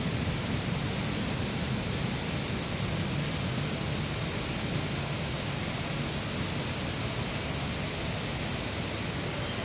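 Heavy rain pouring steadily, an even rushing hiss with a low rumble underneath.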